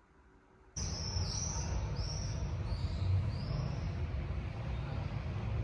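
About a second in, a steady low rumble starts suddenly, like distant traffic, and a small bird chirps about five times over the next few seconds.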